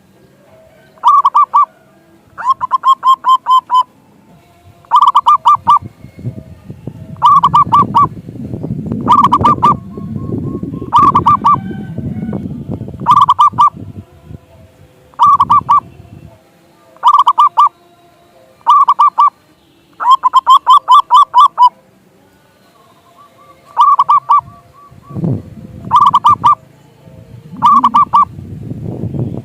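Zebra dove (perkutut) cooing loudly: short clusters of quick staccato coos repeated about every two seconds, over a low rumbling background noise that swells in the middle and again near the end.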